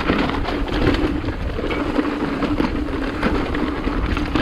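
Mountain bike descending a rough dirt trail: tyres rumbling over the ground, with frequent short rattles and clicks from the bike and a steady hum underneath.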